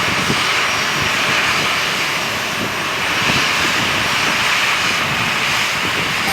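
Steady, loud noise of an airliner's engines.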